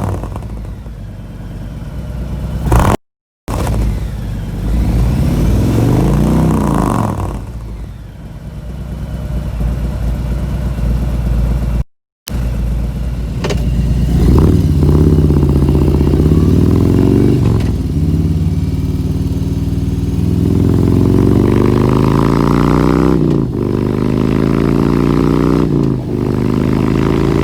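Harley-Davidson Milwaukee-Eight 107 V-twin running through a catless S&S Sidewinder 2-into-1 race exhaust with the dB reducer removed, revved up and down again and again. Later it rises in pitch several times in a row, each rise ending in a drop. Loud on throttle.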